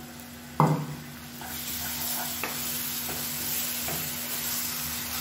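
Freshly added tomato purée frying in hot oil in a non-stick kadai, sizzling as a wooden spatula stirs it through the onion masala, with a few light scrapes and taps on the pan. A single sharp knock about half a second in, then the sizzle builds from about a second and a half in.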